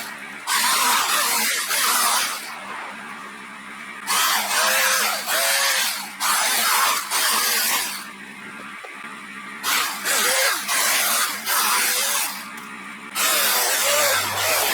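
Electric chainsaw revving in about ten short bursts, each under a second or so, as it cuts into wood, its motor pitch rising and dipping within each burst. A steady low hum runs underneath.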